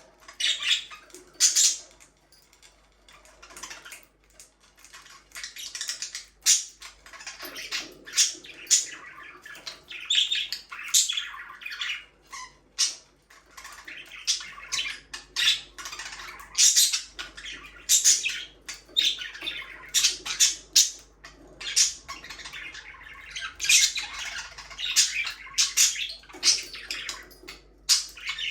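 Budgerigars chirping and squawking in a rapid, irregular run of short, sharp calls.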